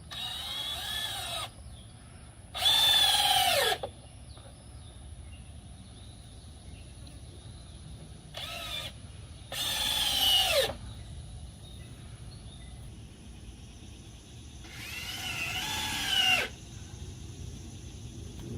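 A power drill runs in five short bursts, each whirring up and dropping in pitch as it stops. This is typical of screws being driven to mount a shelf.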